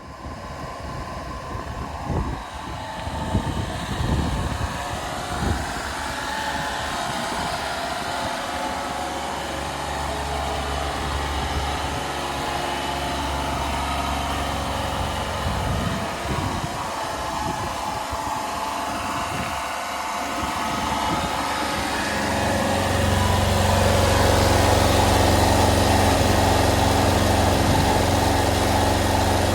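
Honda Acty kei truck's 660cc three-cylinder engine idling steadily, with a few knocks in the first seconds. The engine grows louder and fuller about two-thirds of the way in.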